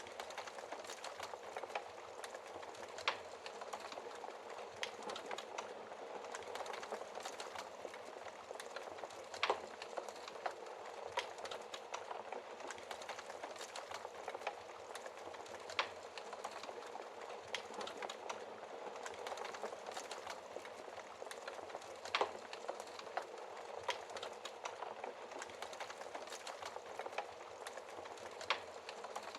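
Wood fire burning in a fireplace: a steady hiss of flames with dense small crackles and occasional sharper pops of burning wood every few seconds.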